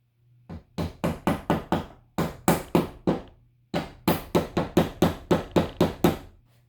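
Hammer blows driving a piece into wood, in three quick runs of about four to five blows a second with short pauses between runs.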